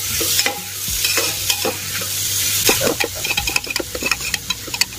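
Chopped onions frying in hot mustard oil in a metal pressure cooker, sizzling as a metal spoon stirs them, scraping and knocking against the pot's bottom and sides in quick, uneven strokes.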